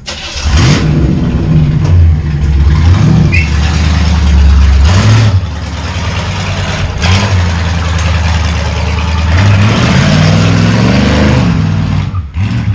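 Chevrolet El Camino engine running loud through side pipes, revved again and again so that its pitch rises and falls several times, with a short drop near the end.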